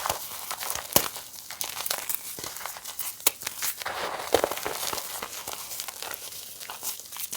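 Reformed gym chalk being crushed, giving a dense run of crisp crunching and crackling, with sharper cracks about a second in and about four and a half seconds in.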